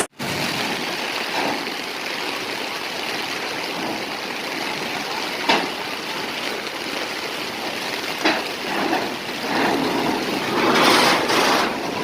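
Steady rushing noise of a storm, with two sharp knocks partway through and louder surges near the end.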